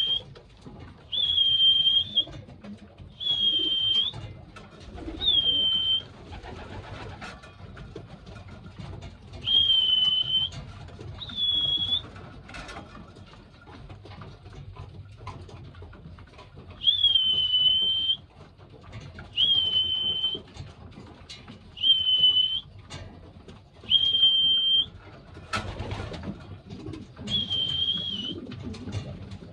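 Young pigeons (squeakers) giving high, thin squeaking calls, about eleven of them, each held for roughly a second, with softer pigeon cooing underneath.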